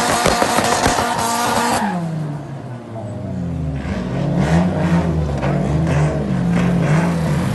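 A performance car engine running hard at high revs over a broad rushing noise. About two seconds in the revs fall away, and the engine then runs at lower revs, rising and falling, with sharp cracks through it.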